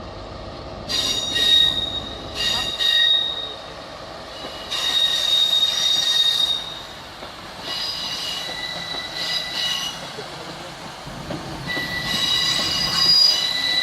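Train wheels squealing against the rails as a train moves slowly through the station: high-pitched whistling squeals that come and go in about five bursts, over a low rumble.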